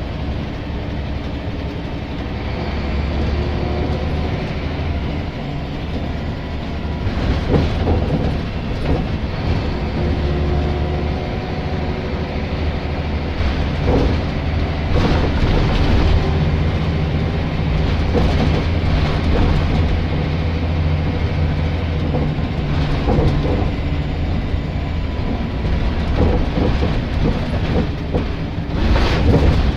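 Scania L94 single-deck bus engine running under way, its low note stepping up and down several times, with frequent knocks and rattles.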